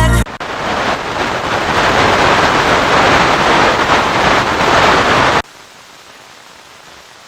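FM radio receiver hiss: loud, even static from a frequency with no station. About five and a half seconds in it drops suddenly to a much fainter hiss.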